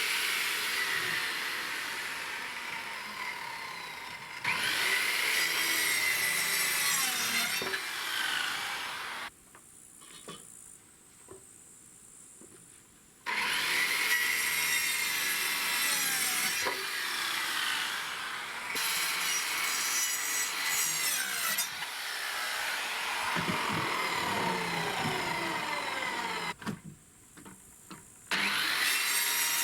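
A saw cutting through wood in long stretches, with a longer pause about nine seconds in and a short one near the end.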